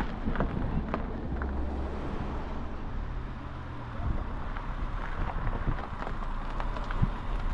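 A vehicle engine's low steady hum, with wind noise on the microphone.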